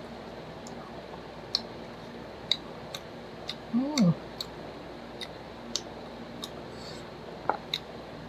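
A person chewing crispy fried chicken close to the microphone: scattered sharp little crackles and mouth clicks, irregular, about one or two a second. A short hummed 'mm' rising and falling in pitch about four seconds in.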